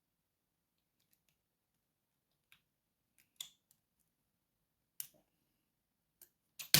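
A few sharp, sparse metal clicks of a lock pick and tension wrench working the pins of a padlock, then a sudden louder metallic clatter at the very end.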